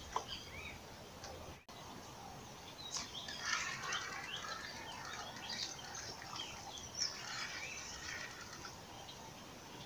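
Birds chirping, many short overlapping calls, busiest from about three seconds in, over a steady outdoor hiss. The sound cuts out for an instant shortly before two seconds in.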